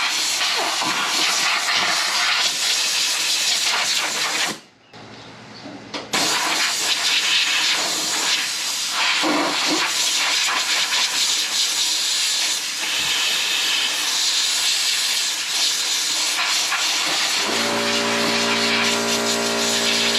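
A steady, loud hiss, broken off briefly about five seconds in. Near the end a humming tone with evenly spaced overtones joins it.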